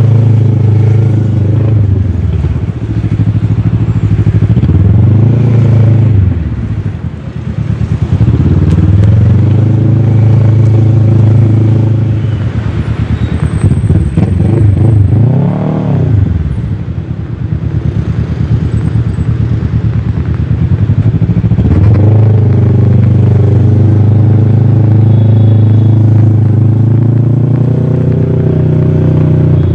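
Kawasaki ER-6f's 649 cc parallel-twin engine running through a full Akrapovic exhaust while riding, heard from a camera mounted on the bike. The revs rise and fall several times as the bike accelerates and shifts. There is a quick rise and drop in revs about sixteen seconds in, then a climb into a steady pull from about twenty-two seconds on.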